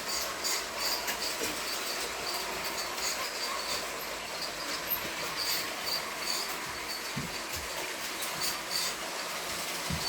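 Lego toy train running on its plastic track: a steady whir with frequent light clicks and rattles throughout.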